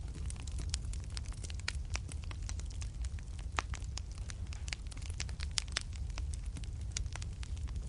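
Fireplace fire crackling: many irregular sharp pops and snaps, a few louder than the rest, over a steady low rumble of burning.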